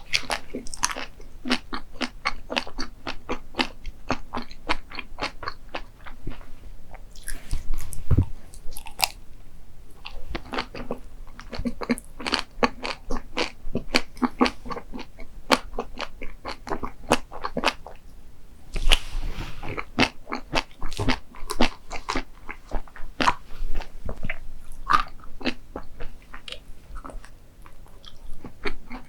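Close-miked crunchy chewing of dessert: a dense run of crisp crackling crunches, several a second, with a louder bite or two along the way.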